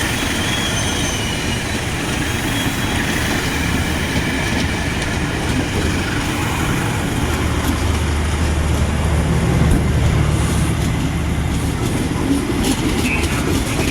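A train running on the track: a steady rumble of wheels on rail, with a low engine hum that swells in the middle and a run of sharp clicks of wheels over rail joints near the end.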